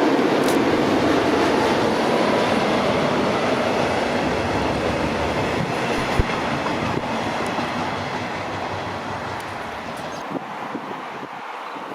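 A train passing on the line, a steady rumble of wheels on rail that slowly fades over the last few seconds, with one sharp knock about six seconds in.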